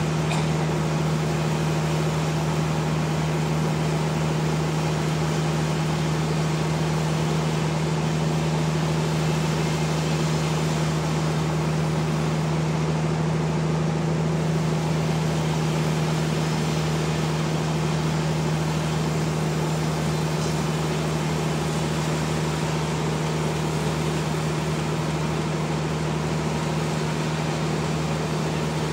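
Sawmill machinery running steadily, with a constant low hum and no pauses.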